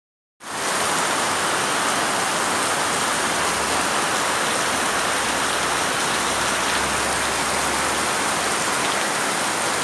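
Steady rain falling in a dense, even hiss, fading in about half a second in.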